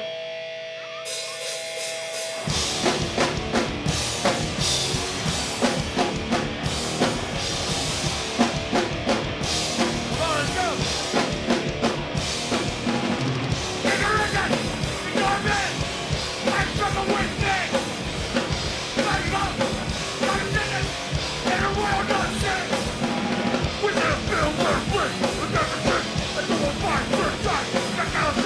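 Hardcore band playing live: a held guitar tone, then about two and a half seconds in the drums and the full band come in loud and fast for the song's instrumental intro.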